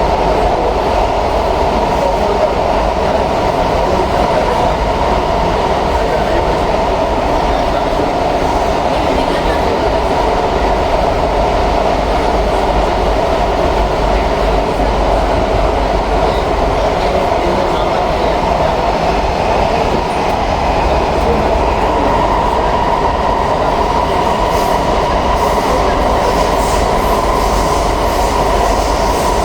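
Cabin noise of an SMRT C151B metro train running between stations: a steady rolling rumble of wheels on rail with an even hum.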